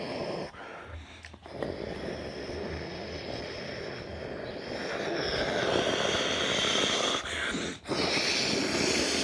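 Boeing 787-9 airliner's Rolls-Royce Trent 1000 jet engines on final approach for landing: a steady jet rumble that grows louder about five seconds in, with a high engine whine coming in on top.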